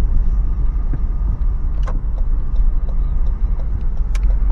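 Toyota 4Runner with its 4.0-litre V6 driving slowly, heard from inside the cabin as a steady low rumble. Two sharp clicks, about two seconds in and near the end.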